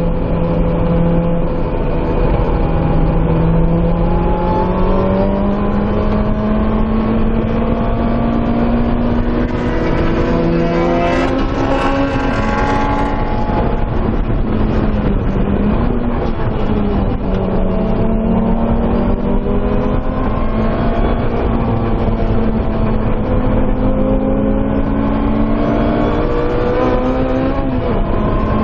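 Supercharged 1.8-litre four-cylinder engine of a 2007 Lotus Exige S at racing speed, heard from inside the cockpit and revving to around 7,000 rpm. Its pitch climbs under acceleration and drops back several times as it shifts and slows for corners, over steady wind and road noise.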